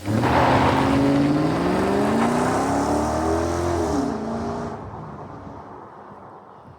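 2013 Toyota Tundra's custom exhaust (long-tube headers, 3-inch duals with an X-pipe, variable-tune mufflers) under hard acceleration, the engine note rising steadily in pitch. About four seconds in the pitch drops and the sound fades away as the truck passes.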